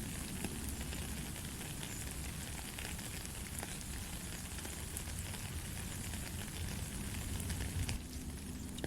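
Steady rain falling: a dense, even patter of many small drops, with a low rumble underneath.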